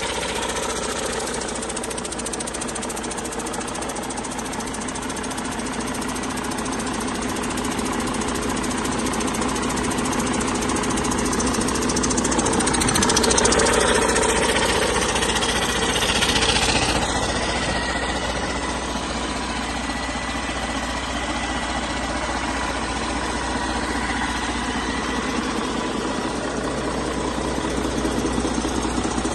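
2014 Detroit DD15 14.8-litre inline-six diesel engine running on a test run, steady at idle with the usual diesel clatter. It grows louder for a few seconds around the middle, then settles back.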